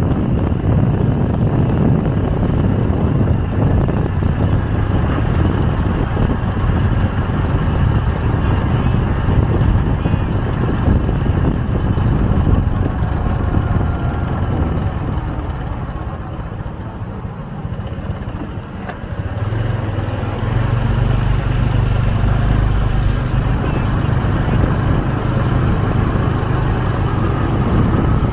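Motorcycle taxi's engine running with wind rushing over the microphone as it rides through traffic. The sound dips for a few seconds past the middle, then the engine returns as a steady, even tone.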